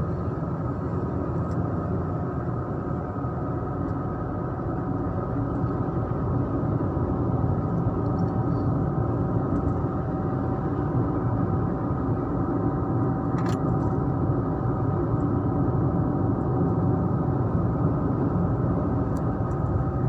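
Steady road noise of a car driving on asphalt, heard from inside the cabin: a constant hum of engine and tyres, with one brief click about two-thirds of the way through.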